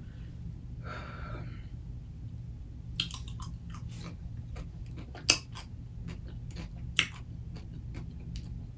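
Close-up eating sounds of a pickle slice being chewed: wet mouth clicks and crunches, the sharpest about three, five and seven seconds in, over a steady low hum.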